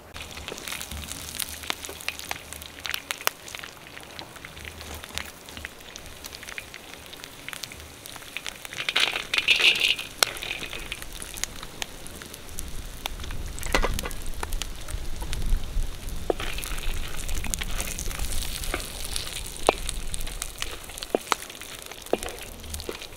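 Food frying in oil over a wood fire: a steady sizzle dotted with many sharp crackling pops, with a louder hissing burst about nine seconds in.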